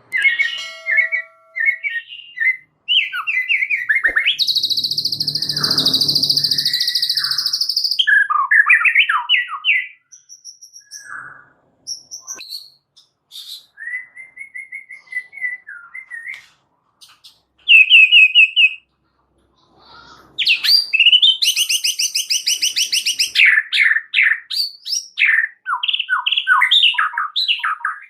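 White-rumped shama (murai batu) singing a varied, chattering song of quick whistled phrases. Two long, rapid buzzing trills stand out, one a few seconds in with a harsh low rasp under it and one past the middle, with short pauses between phrases.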